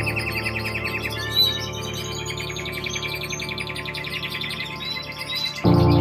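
Small songbirds chirping, with a fast trill in the first second and scattered chirps after it, over background music of held notes that shifts to a new, louder chord about five and a half seconds in.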